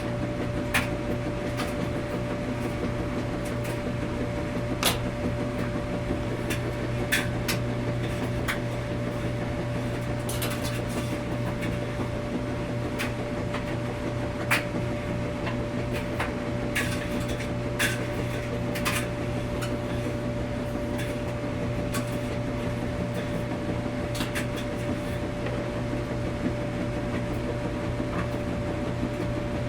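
Washing machine running: a steady low hum with a constant higher tone over it, and sharp clicks and knocks at irregular moments.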